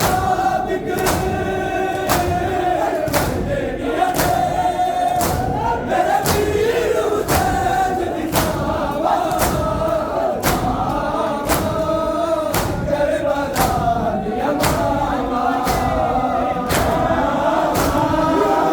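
A crowd of Shia mourners chanting a nauha together in unison, with matam (chest-beating) slaps landing in a steady beat under the voices.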